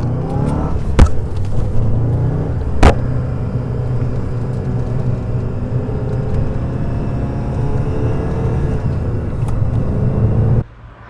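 1994 Fiat Coupé 16V Turbo's 2.0-litre turbocharged four-cylinder engine running at steady, fairly low revs, with two sharp clicks about one and three seconds in. The sound cuts off abruptly near the end.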